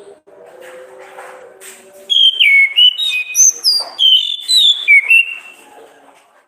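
Orange-headed thrush (anis kembang) singing: a loud phrase of clear whistled notes jumping between pitches, starting about two seconds in and fading out near the end. Before it, a faint steady low hum.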